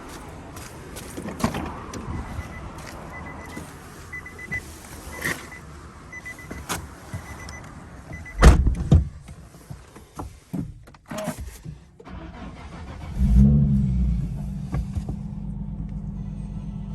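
Clicks and a dotted electronic warning beep, then a heavy thump about eight seconds in. About thirteen seconds in, the Nissan Fairlady Z Z34's 3.7-litre V6, fitted with an HKS aftermarket exhaust, starts, flares briefly and settles into a steady idle.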